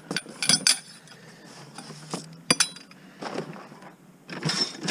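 Scrap metal pieces clinking and clattering as a curbside junk pile is rummaged through, in a few short flurries of sharp clinks.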